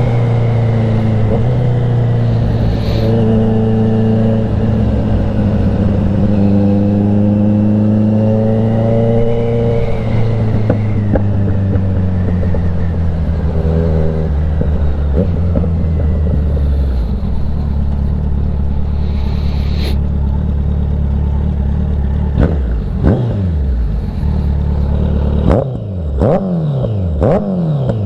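Kawasaki Z900 inline-four motorcycle engine heard while riding, holding a fairly steady cruising note with slight changes in revs. In the last several seconds the revs swing up and down quickly several times.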